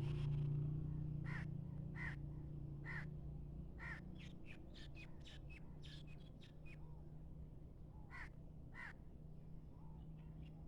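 Crow cawing: four caws about a second apart, a run of quicker, shorter calls, then two more caws near the end, over a faint low hum.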